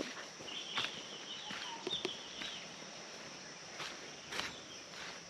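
Footsteps on a jungle trail, irregular soft steps and knocks, with wild animals chirping in quick runs during the first couple of seconds over a steady high insect drone.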